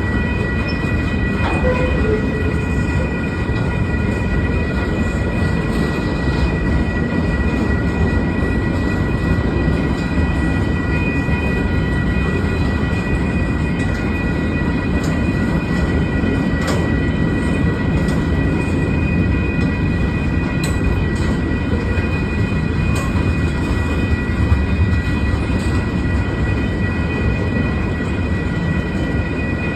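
CSX freight cars rolling past on steel wheels: a steady loud rumble of wheels on rail, with a steady high ringing hum and a few sharp clanks.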